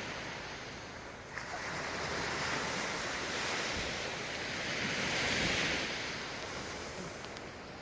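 Sea waves breaking and washing on the shore, one swell building about a second in and peaking around the middle before easing, with some wind noise on the microphone.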